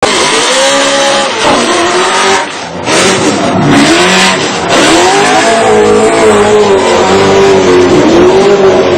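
Race car engine revving hard, its pitch rising and falling again and again as the car drifts, with tyre noise underneath; it eases briefly about two and a half seconds in.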